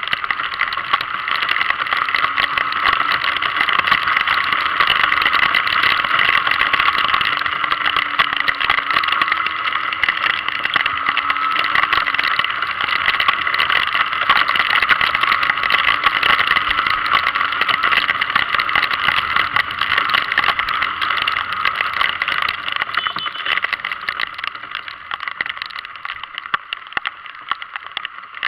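Steady rushing noise of wind and rain on the microphone while riding in the rain, with a faint engine hum underneath that steps up and down in pitch.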